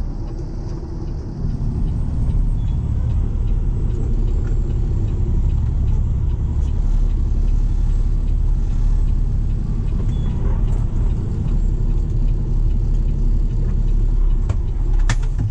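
Steady low rumble of a motor vehicle's engine and road noise, with a short sharp click near the end.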